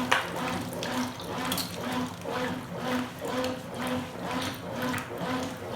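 Consul Super Cargo top-load washing machine filling for the rinse: water runs and splashes into the tub with an even pulsing about three times a second. There is one short knock just after the start.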